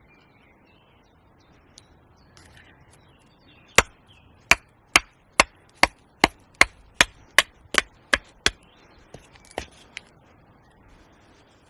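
Small axe chopping into wood, as when roughing out a spoon blank: a run of about a dozen sharp strikes, two or three a second, followed by a few lighter taps.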